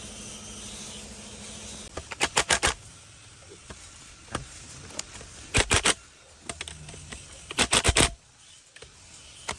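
Hand ratchet wrench clicking in three short bursts of quick clicks, a few seconds apart, as bolts are worked loose on a diesel engine.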